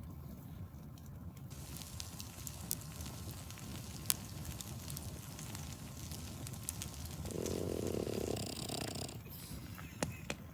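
Campfire burning, with scattered sharp crackles and pops over a low steady rumble. A brief muffled noise swells about seven seconds in.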